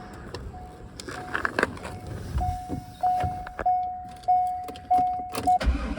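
An electronic warning chime repeating about every 0.6 s, louder from about two and a half seconds in, among clicks of keys in the ignition. Near the end the starter begins cranking a 2000 Corvette LS1 V8 engine just as it is about to start.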